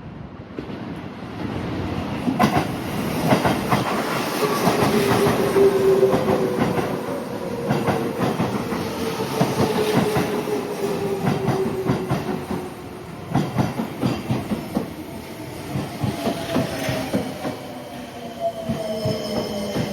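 Japanese electric commuter train running past a station platform: wheels clacking over rail joints, with a motor whine falling slowly in pitch as it slows. A high steady wheel squeal starts near the end.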